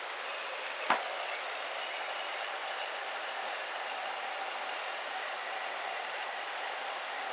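Wood campfire burning with a steady hiss, a few small ticks and one sharp crackling pop about a second in.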